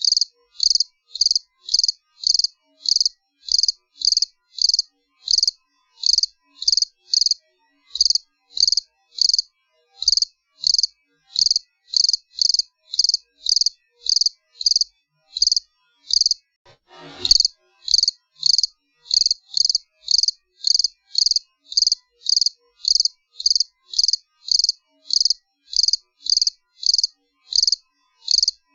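A cricket chirping steadily, short high chirps at about two a second with silence between them. About seventeen seconds in, a brief falling swoosh cuts across once.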